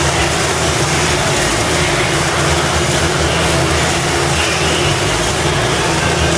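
Several sport motorcycle engines running together inside a steel globe of death, a loud, unbroken mass of engine noise.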